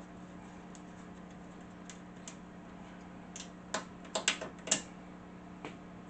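Sharp clicks of hand tools and small hardware being handled while taking the table saw apart: a few faint ticks, then a quick cluster of louder clicks about four seconds in, over a steady low hum.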